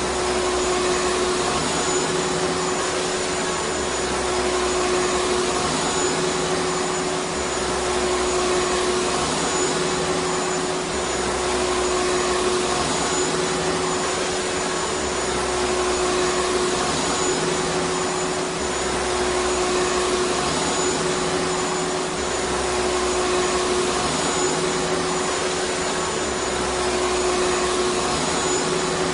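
Vacuum cleaner running steadily: an even rushing hiss with a steady hum, and a low throb underneath that swells and fades about every two seconds.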